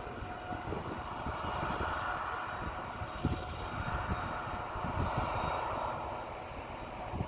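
Large harvest machinery running steadily in the field: a continuous engine drone.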